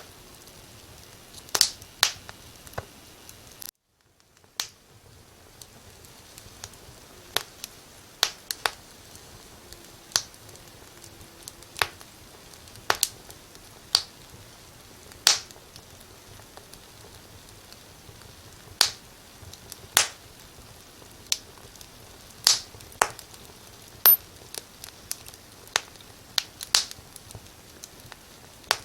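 Wood fire crackling: irregular sharp pops and snaps, about one or two a second, over a steady soft hiss. The sound cuts out completely for about a second, a little under four seconds in.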